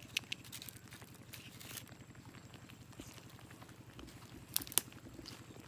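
A motor running steadily with a low, even pulse, with a few sharp clicks and knocks over it, the loudest a pair about three-quarters of the way through.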